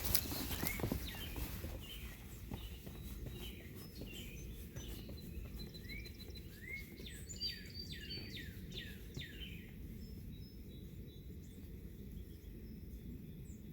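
Wild songbirds chirping and calling: short rising notes, then a quick run of falling whistles about halfway through, over a steady low rumble of outdoor noise.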